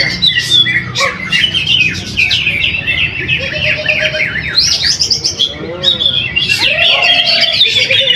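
Greater green leafbird (cucak hijau) singing a fast, unbroken stream of varied chirps, trills and whistled notes.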